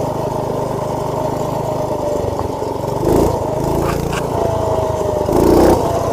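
Minibike's small Predator single-cylinder engine running under way, picked up by a cloth-wrapped mic inside the rider's helmet; the engine note swells a couple of times as the throttle is opened.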